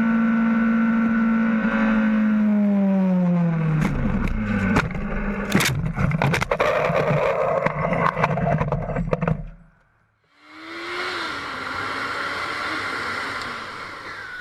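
A vehicle engine running at a steady high pitch that then drops away. It is followed by several sharp knocks and scraping clatter. After a brief break, more road and engine noise follows.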